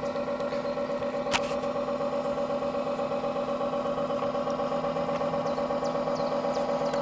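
Radio-controlled model tugboat's engine sound running steadily, a droning hum with a fast, even pulse. There is one sharp click about a second in.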